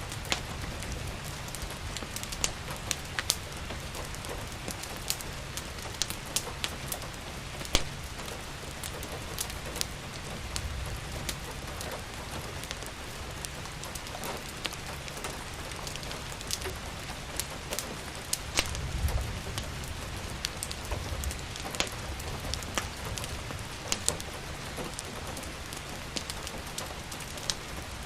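Steady rain hissing, with a wood fire crackling through it: many sharp pops and snaps scattered at random. A low rumble swells briefly about ten and again about nineteen seconds in.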